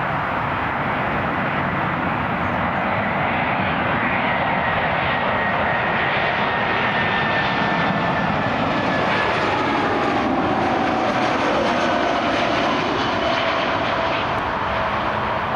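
Jet airliner passing close by, its engine noise steady with a whine that slowly falls in pitch as it goes past.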